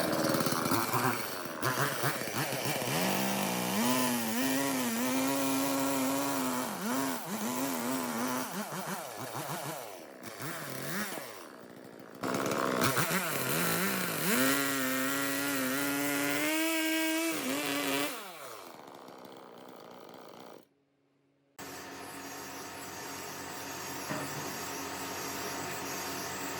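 Two-stroke chainsaw running and cutting wood in two spells, its pitch dipping and recovering as the chain loads in the cut. Then a short silence and a steady hiss.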